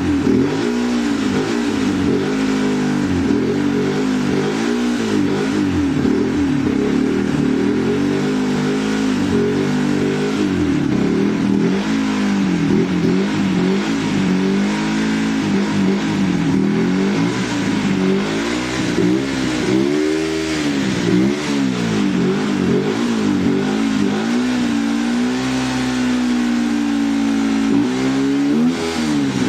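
Yamaha YZF-R125's single-cylinder four-stroke engine through its stock exhaust, revved up and dropping back again and again, holding a steadier higher pitch for a few seconds near the end.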